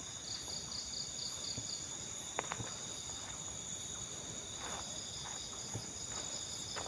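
Chorus of night insects trilling steadily in several high pitches, with a faster pulsing trill over the first couple of seconds and a few faint clicks about two and a half seconds in.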